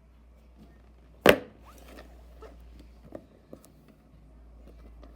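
Packaging being handled: one sharp knock about a second in, then a few light taps and clicks, over a steady low hum.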